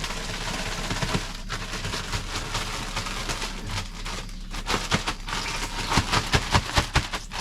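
Gas burner flame hissing under the pot of fish-fry oil, turned up to bring the oil up to frying temperature, with crackling throughout. Sharp pops and clicks come faster near the end.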